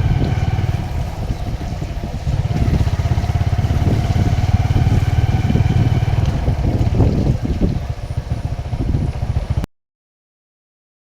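A vehicle engine running steadily, a loud low rumble with faint steady tones above it. It cuts off abruptly about a second and a half before the end, leaving dead silence.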